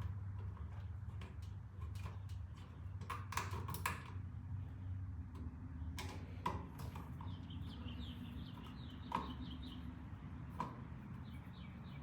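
Scattered clicks and scrapes of a screwdriver on an electrical outlet's metal mounting screws as they are backed out, with runs of short high squeaks, several a second, a little past the middle and again near the end. A low steady hum underlies it all.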